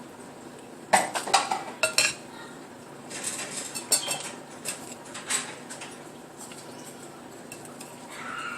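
A spoon clinking and scraping against a dish as cooked rice, chicken and cabbage are spooned about, in irregular clinks that are loudest about a second and two seconds in, with a cluster of lighter ones a little later.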